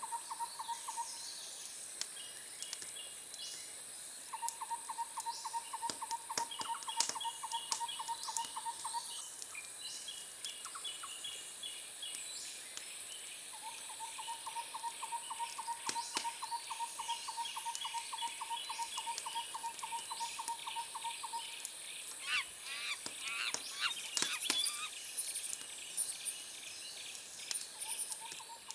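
Wood fire crackling with scattered sharp pops, under a layer of animal calls: long, fast pulsed trills that come and go, and a burst of sweeping chirps a little past the middle.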